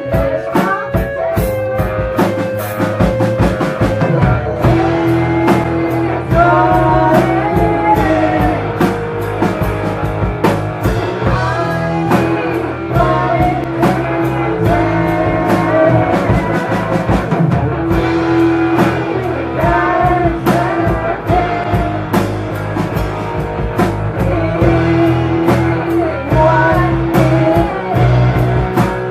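Rock band playing live: guitar over a drum kit keeping a busy beat, with a wavering melodic line above.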